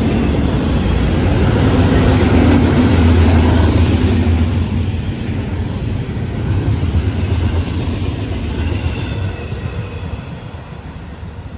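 Double-stack intermodal well cars of a freight train rolling past, a steady low rumble of steel wheels on the rails that fades over the last few seconds as the end of the train goes by.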